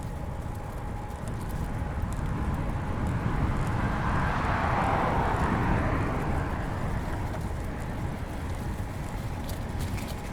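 Steady wind and tyre rumble of a road bike being ridden along a paved path, with a broad whoosh that swells to a peak about midway and then fades. A run of quick light clicks comes in near the end.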